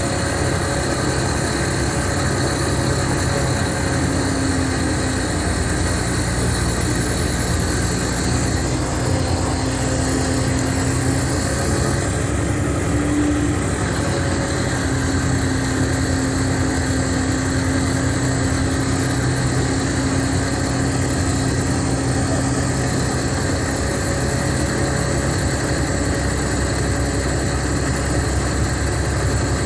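Mercedes-Benz O500RSD coach's six-cylinder diesel engine running steadily, with a brief small rise in pitch about 13 seconds in.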